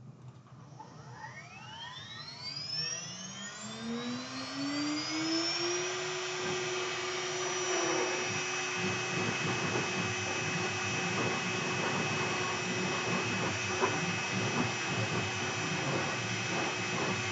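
Air-cooled 2.2 kW CNC router spindle spinning up: a whine that rises in pitch over about five seconds, then holds at a steady high whine over a rushing hiss of air.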